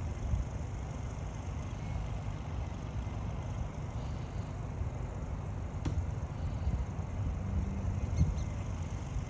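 Steady low rumbling outdoor background noise with no voices, broken by a single sharp click about six seconds in.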